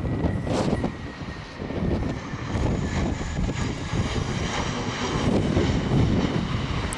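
Airbus A319 airliner's jet engines whining steadily over a low rumble during its landing.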